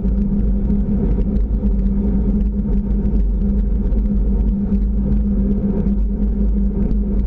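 Car running: a steady low engine rumble with a constant hum.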